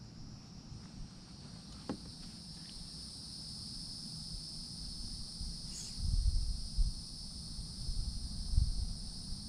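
Steady high-pitched insect chorus, strengthening in the first second or two. A single click comes about two seconds in, and low rumbling bumps come later, around six to seven seconds and again near the end.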